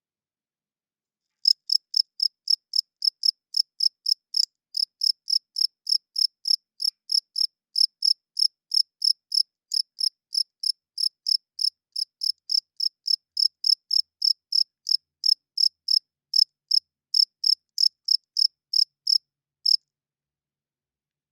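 Male cricket chirping: short, evenly spaced, high-pitched chirps about three a second. The chirps start about a second and a half in and stop shortly before the end.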